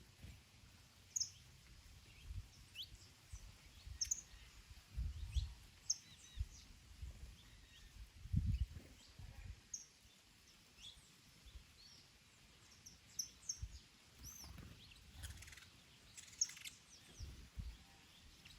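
Small birds chirping and calling with many short, high notes, over irregular low gusts of wind buffeting the microphone, the strongest about halfway through.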